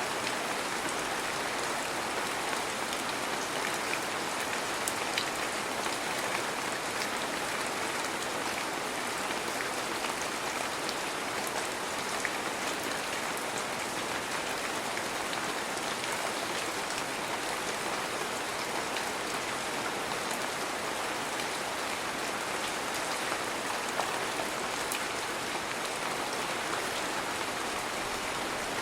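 Heavy rain falling steadily: a dense, even hiss of rain on surfaces, with the odd sharper drop tick scattered through it.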